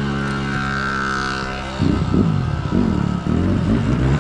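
Dirt bike engine running at a steady speed while riding, then from about two seconds in revving up and down quickly several times.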